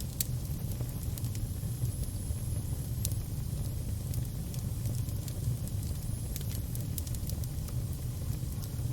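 Fire burning with a steady low rumble, a few sharp crackling pops and a faint high whistle now and then.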